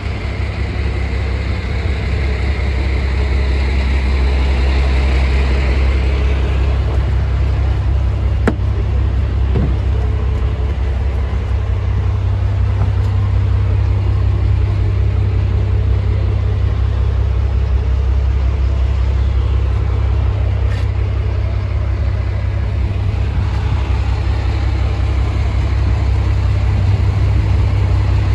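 Scania 92M truck's diesel engine running with a steady low rumble. A hiss higher up fades out about six seconds in.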